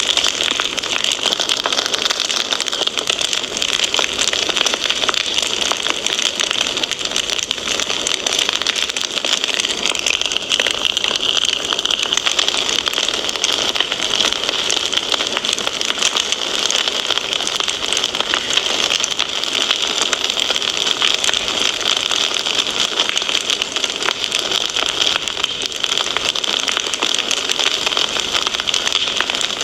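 Wood fire crackling steadily: a dense stream of small pops and snaps over a continuous hiss.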